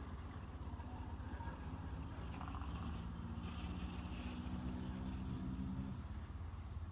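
A motor vehicle engine running steadily with a low rumble and hum, the hum fading out near the end, with a few brief faint high-pitched sounds over it.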